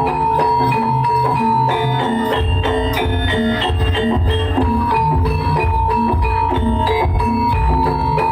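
Javanese gamelan music accompanying a kuda lumping dance: metal mallet instruments play quick repeated notes over low drum strokes, with a steady held high tone running through it.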